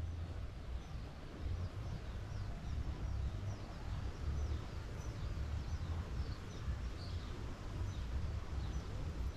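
Birds chirping in a long series of short, falling chirps, over a low rumble of wind on the microphone.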